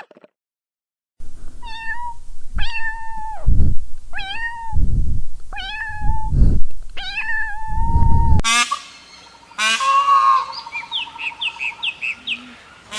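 A domestic cat meowing repeatedly, five meows over about seven seconds, with low rumbling noise between them. About eight seconds in it cuts to a different sound with a run of short, high chirps.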